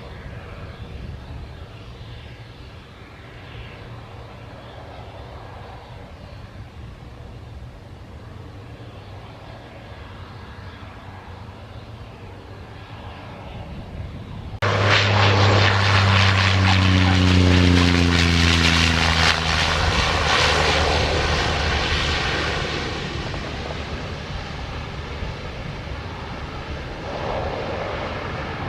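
Aircraft on its landing pass: a faint distant engine hum at first, then a sudden much louder engine drone about halfway through, its pitch dropping as the plane goes by, fading slowly toward the end.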